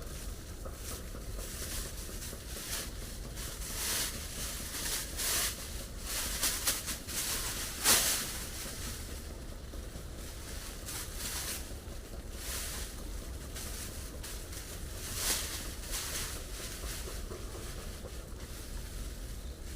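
Steady rain hiss with a low wind rumble, broken by several brief louder rushing or rustling noises, the loudest about eight seconds in.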